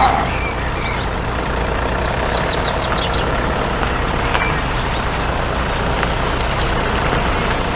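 A steady motor or engine running sound with a low hum, and a few faint high chirps about two and a half seconds in.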